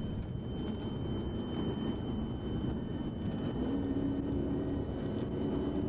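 A pursuing police car at high speed: a steady drone of engine, tyre and wind noise, its engine note rising slightly about four seconds in, with a thin steady high whine over it.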